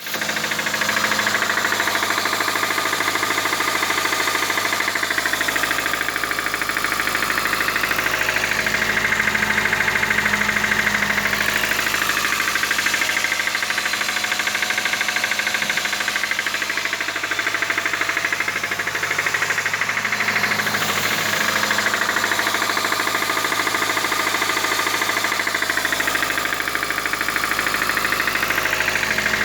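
Petrol engine running steadily with a fast, even knocking in time with the engine, which the title puts down to knocking valves in a failing engine.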